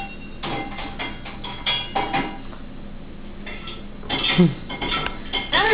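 A baby's playful vocal noises: squeals whose pitch swoops down, around four seconds in and again near the end. Before them come several quick clinking taps with a short ring.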